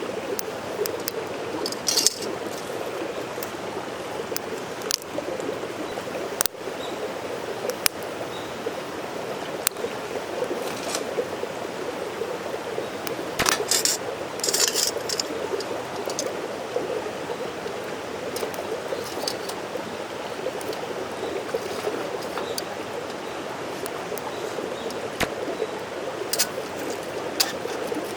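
Mountain stream running steadily, with scattered sharp clicks and a few brief high hisses over it.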